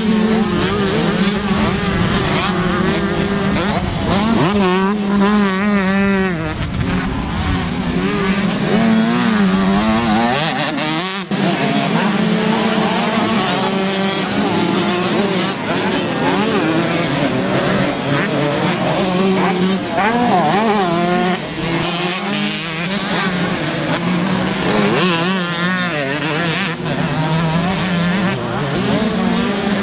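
125cc two-stroke motocross bikes racing, their engines revving up and down over and over as riders accelerate and shift. A steady engine note runs underneath, with a short dip about eleven seconds in.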